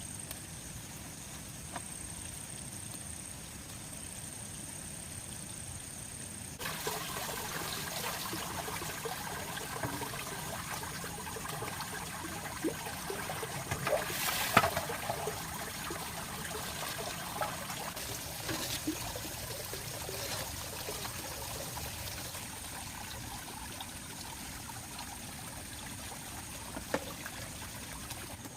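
Water trickling and running, starting abruptly about six and a half seconds in after a quieter stretch of faint hiss. It is dotted with small knocks and clicks, the loudest about halfway through.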